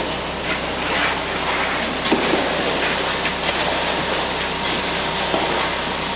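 Concrete mixer truck running steadily during the pour: a continuous mechanical rumble with a low engine hum and scattered scraping knocks.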